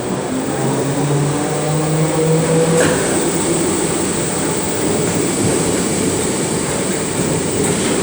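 Merseyrail Class 508 electric multiple unit pulling out of the station: a motor tone rising slowly in pitch for the first few seconds, then a steady loud rumble of the train running past.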